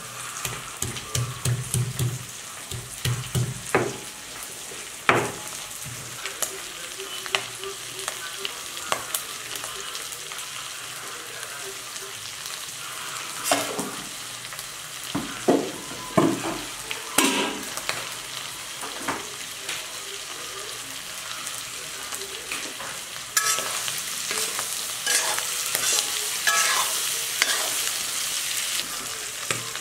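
A stone pestle pounding on a stone grinding slab, a few strokes a second, for the first few seconds. Then chicken gizzards and liver sizzling as they fry in a wok, with a metal spoon scraping and stirring them; the sizzle grows louder about three quarters of the way through.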